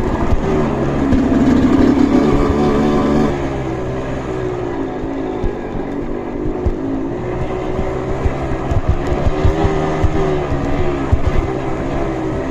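Trail motorcycle engine revving hard for a couple of seconds near the start, then running on with its pitch rising and falling, with scattered knocks and clatter.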